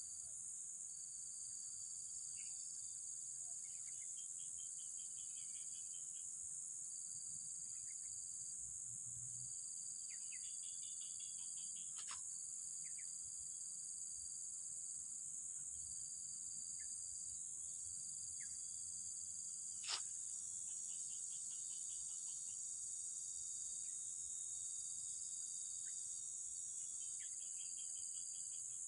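Steady, high-pitched chorus of insects, with a second insect repeating a slightly lower trill of about a second and a half with short breaks between. Two sharp clicks stand out, one about twelve seconds in and a louder one about twenty seconds in.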